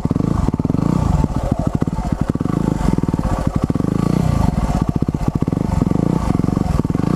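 Motorcycle engine running at low speed, its revs rising and falling under throttle as the bike is ridden through rough, overgrown ground.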